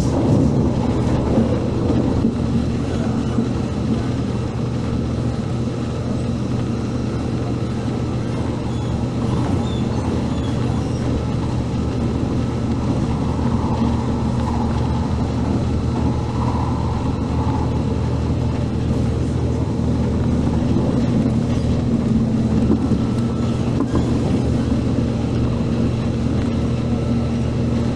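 Korean-built MTR K-Train electric multiple unit running between stations, heard from inside the car: a steady traction-motor hum with one held tone, over wheel-on-rail rumble.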